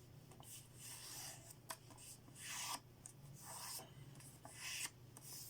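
Sheet of origami paper being creased, a fingernail or finger rubbing along the fold in several soft, irregular strokes, with a few light crinkles and taps.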